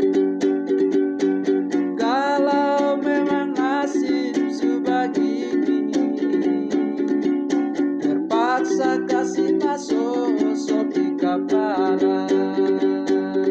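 Acoustic string instrument strummed in a steady rhythm in a small room. A gliding, wavering melody line, like a singing voice, comes in over it twice: about two seconds in and again about eight seconds in.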